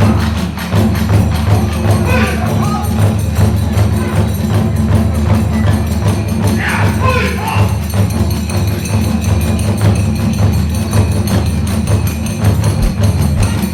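Kagura hayashi accompaniment: the ōdaiko and kodaiko drums beat a fast, driving rhythm while tebiragane hand cymbals clash continuously, with a few short high melodic phrases over the top.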